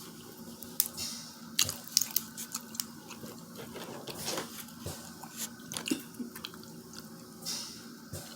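Close-up eating of a seafood boil: wet chewing and mouth smacking, broken by many short sharp clicks and cracks at irregular moments.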